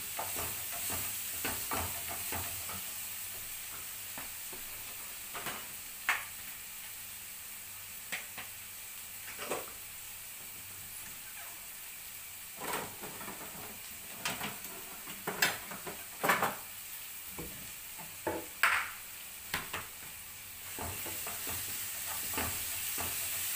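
Chopped bell peppers sizzling in oil in a non-stick frying pan as a wooden spatula stirs them, a steady frying hiss. Scattered sharp clicks and pops sound through the middle, and the sizzle grows louder near the end as stirring picks up again.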